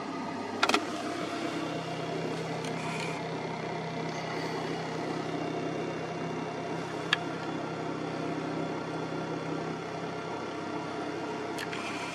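Car engine idling steadily, with a sharp click about a second in and another about seven seconds in.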